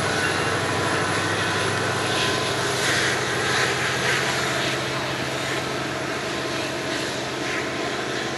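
Train running past with a steady engine drone and rail noise, easing off slowly in the second half.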